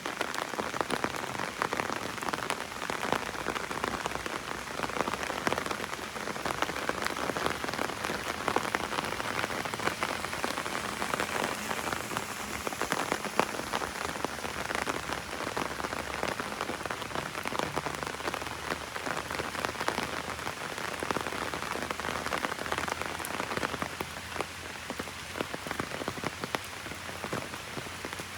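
Heavy rain falling on an umbrella: a dense, steady patter of many drops, a little quieter near the end.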